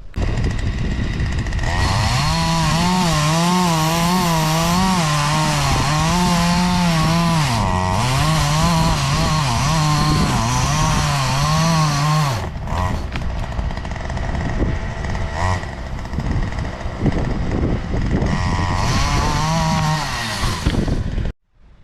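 Poulan Pro gas chainsaw cutting into a fallen tree trunk. It runs at high speed for about ten seconds, its pitch wavering under the load of the cut, then drops to a rougher, lower run. It revs up again near the end and shuts off suddenly.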